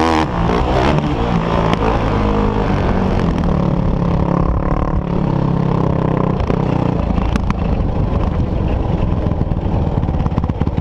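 Off-road motorcycle-type engine running, held mostly at steady speeds, with a change in pitch about six and a half seconds in.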